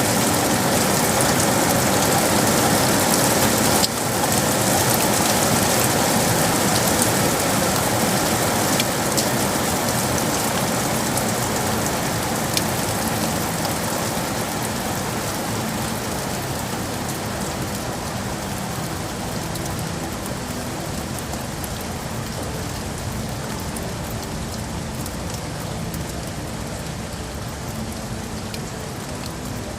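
Steady heavy rain falling and splashing on hard surfaces, dipping briefly about four seconds in and then easing slowly quieter.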